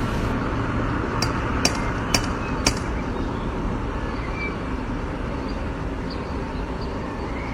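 Steady background noise with four sharp knocks, about half a second apart, between one and three seconds in.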